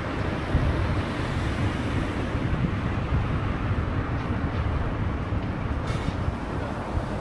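Steady low rumble of wind buffeting the microphone and rolling noise while riding a bicycle, with a brief click about six seconds in.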